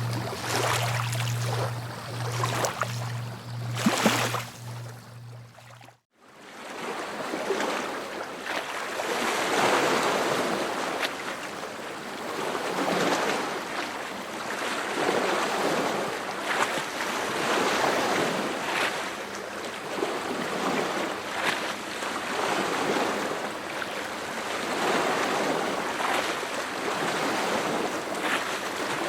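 Sea surf washing onto the shore, a steady rush of water that swells and fades every few seconds. A low steady hum runs under the surf for the first six seconds and stops with a brief sudden break, after which only the surf is heard.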